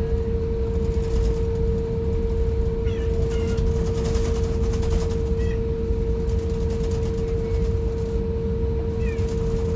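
Steady airliner cabin noise inside an Airbus A350-1000: a low rumble with a constant hum-like tone over it. A few faint, short high squeaks come through now and then.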